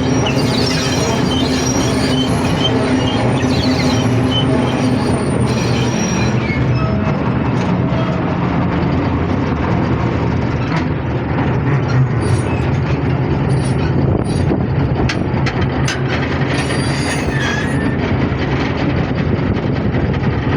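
Diesel locomotive train climbing a mountain grade: the engine runs steadily under continuous wheel and rail noise, with thin high wheel squeals now and then.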